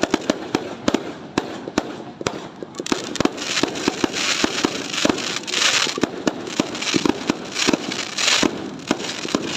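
Fireworks going off in rapid, irregular sharp bangs. From about three seconds in until near the end, they are joined by pulses of loud hissing crackle.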